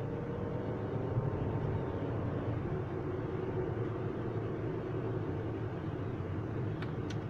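A vehicle's engine running steadily: an even drone with a faint steady hum, and two short faint clicks near the end.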